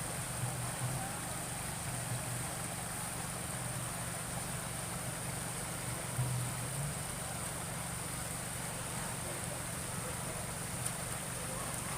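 Steady rushing of river water, with a few faint voices in the distance.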